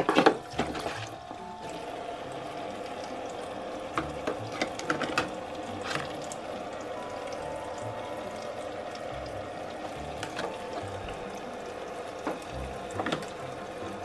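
Thin stream of water running from a toy kitchen sink's faucet and splashing into the plastic basin, with scattered light clicks and knocks of small plastic toy cups and a saucer being handled under it.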